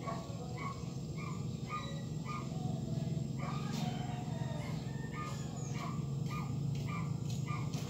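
Birds chirping in short calls about twice a second over a steady low hum.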